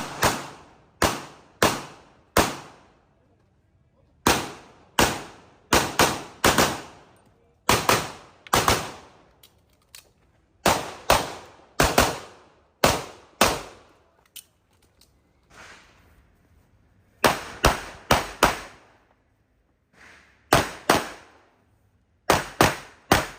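CZ Shadow 2 pistol firing a string of shots, mostly in quick pairs about half a second apart, with pauses of a second or more between groups as the shooter moves between targets. Each shot is sharp and rings briefly.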